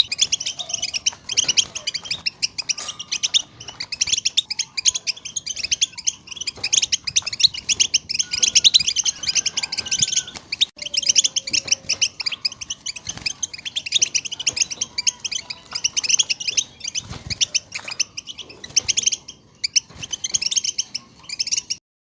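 A group of European goldfinches chattering together: a dense run of rapid, high twittering calls that stops suddenly near the end.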